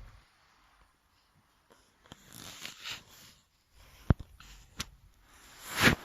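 Wood fire crackling in a freshly lit fireplace stove: two sharp cracks about four seconds in, with soft hissing around them and a brief rising rush of noise near the end.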